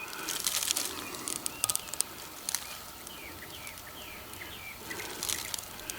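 A small bird singing a quick series of short, falling chirps about halfway through, over scattered light clicks and rustles of handling.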